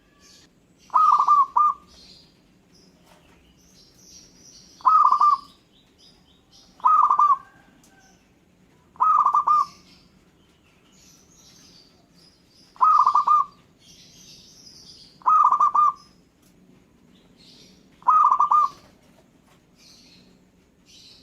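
Zebra dove (perkutut) cooing: seven short, stuttering coo phrases, one every two to four seconds. Fainter high chirps from other small birds fill the gaps between them.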